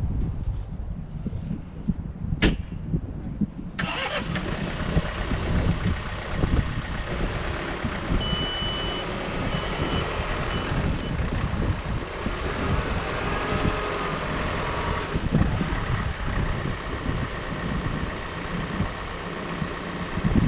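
A machine's engine running steadily with a low rumble. A sharp click comes about two seconds in, a brighter hiss joins just before four seconds, and short high beeps sound three times near the middle.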